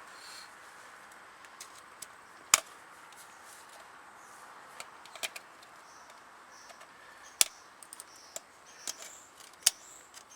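Scattered sharp metallic clicks and clinks of hand tools and parts while a truck's front locking hub is taken apart, with three louder clacks: one a couple of seconds in, one past the middle, and one near the end.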